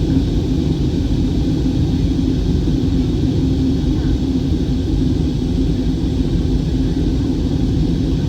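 Jet airliner cabin in flight: steady engine and airflow rumble with a constant low drone, unchanging throughout.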